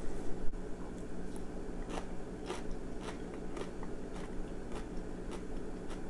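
A person chewing a mouthful of stir-fried bitter melon and beef with the mouth closed, a soft crunch about twice a second.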